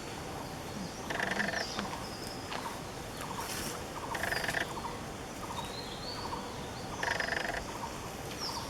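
Wild birds calling in forest: a short, rapid rattling call repeats about every three seconds, with thin, high whistled notes between.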